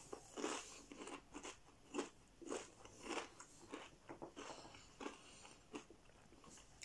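A person chewing a potato crisp with mouth closed. The crunches come about twice a second.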